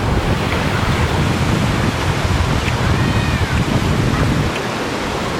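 Ocean surf washing on the shore, with wind buffeting the microphone in a low rumble that eases off about four and a half seconds in.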